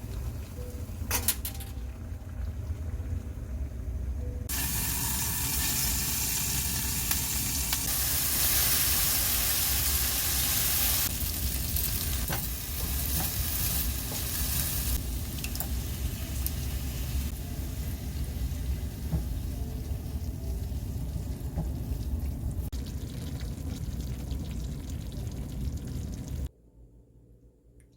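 Food sizzling and frying in a hot pan, with a steady low rumble underneath. The sizzle grows much louder about four seconds in and cuts off suddenly near the end.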